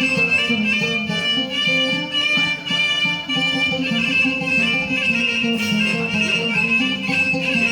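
A rababa, the Bedouin bowed fiddle, playing an unbroken instrumental melody.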